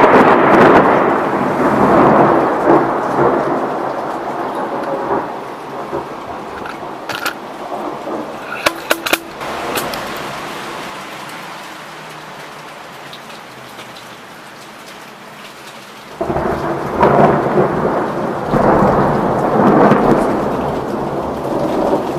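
Thunder rolling over steady heavy rain. The first peal rumbles and fades over about ten seconds, with a few sharp ticks in the middle. A second thunderclap breaks suddenly about sixteen seconds in and rumbles on to the end.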